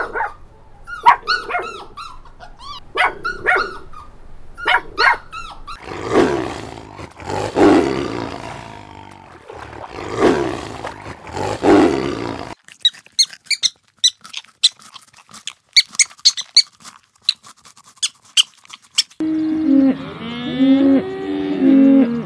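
A run of animal sounds: golden retriever puppies whining and yipping in short calls, then a tiger giving three long, deep growls. After that comes a stretch of sharp high clicks, and near the end calves lowing.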